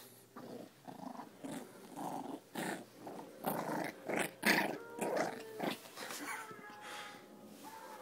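10-week-old cockapoo puppy growling in a run of short bursts, about two a second, loudest in the middle and dying away after about six seconds.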